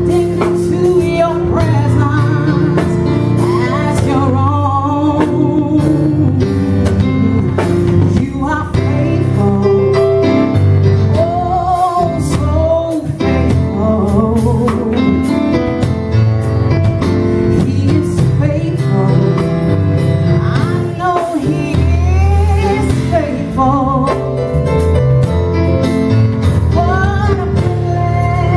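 Gospel music: a singer with a backing band, the vocal line gliding up and down between notes.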